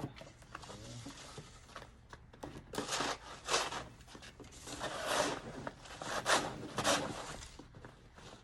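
Snow shovel scraping and pushing through heavy snow in several short strokes, the loudest about three seconds in and again near the end.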